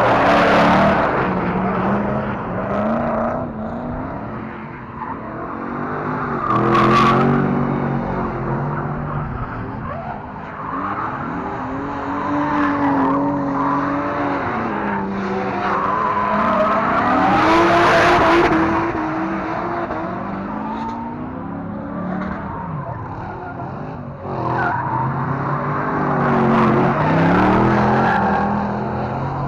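Drift cars revving hard, the engine pitch rising and falling again and again, with tyres screeching as they slide. The sound swells loud several times as cars come close and fades between passes.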